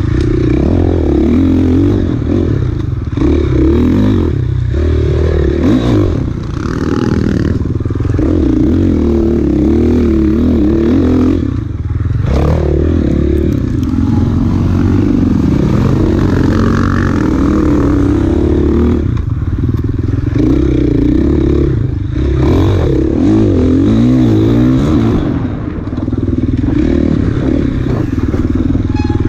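Off-road dirt bike engine ridden hard on a trail, revs rising and falling continuously, with brief lifts off the throttle every few seconds.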